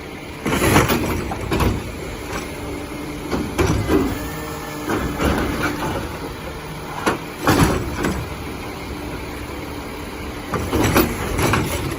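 McNeilus side-loader garbage truck working: the engine runs steadily under a string of loud knocks and clanks, with a steady hydraulic whine for a couple of seconds near the middle.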